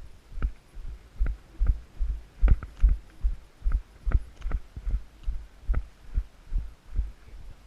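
A horse's hoofbeats, even thuds at a steady pace of about two and a half a second, each with a short sharp knock on top.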